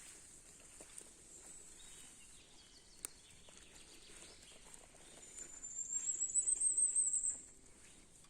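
A small bird sings a thin, very high trill of rapid repeated notes, rising slightly in pitch, for about two seconds from a little over five seconds in. Under it are faint scattered ticks and rustles, with one sharp click about three seconds in.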